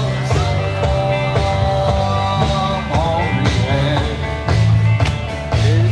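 Live rock and roll band playing.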